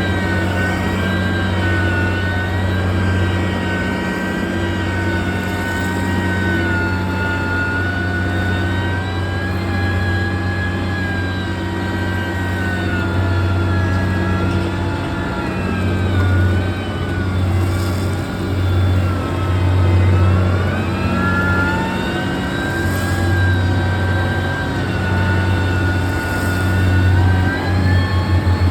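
Heavy road-construction machine's engine running steadily with a deep hum and a whine that drifts up and down in pitch, the engine working harder for several seconds past the middle.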